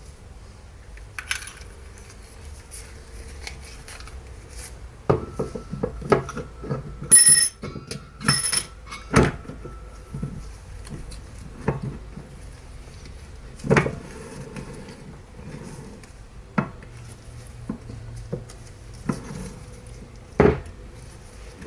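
Metal parts being handled and set down on a bench: scattered clinks and knocks, with two brief ringing metallic clinks about seven and eight and a half seconds in.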